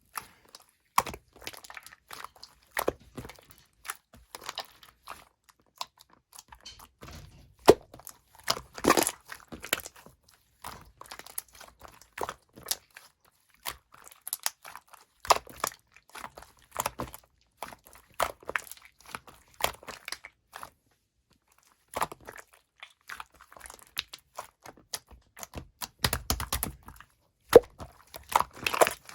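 Sky-blue slime being squished and poked by hand, making irregular sticky clicks and crackling pops, with a brief pause about two-thirds of the way through.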